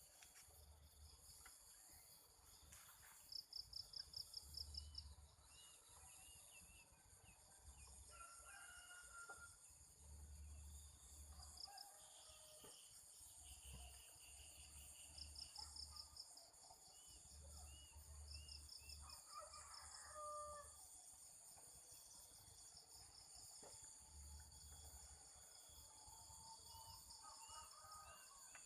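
Faint rural ambience: crickets and other insects buzzing steadily, small birds chirping on and off, and a rooster crowing a few times in the distance.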